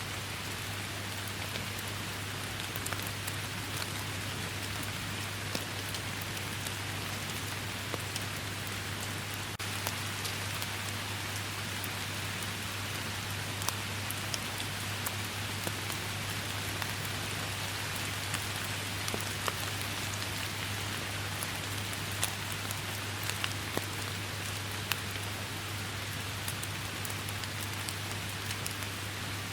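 Steady rain falling, an even hiss with scattered sharp drop ticks throughout, over a constant low hum.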